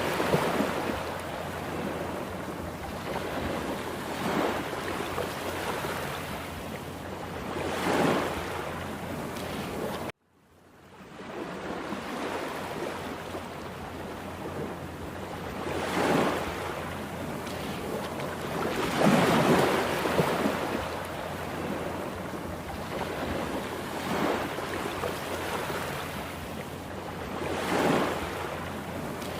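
Heavy surf of a rough sea: waves break and rush in as a continuous roar that swells to a loud surge every few seconds. Wind buffets the microphone underneath. The sound breaks off for a moment about ten seconds in, then comes back.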